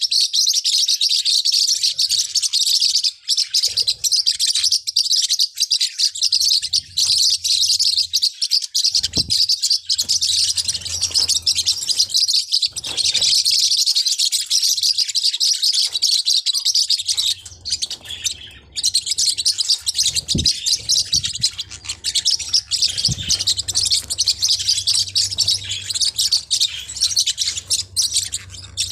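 Forpus parrotlet chirping and chattering rapidly in high-pitched calls, almost without a break, with a brief lull about two-thirds of the way through.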